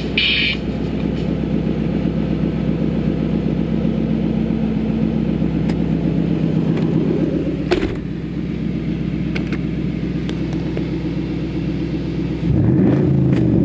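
2008 Ford Mustang Bullitt's 4.6-litre V8 idling steadily through an axle-back muffler delete, with no mufflers in the exhaust. Near the end the throttle is blipped and the engine revs up.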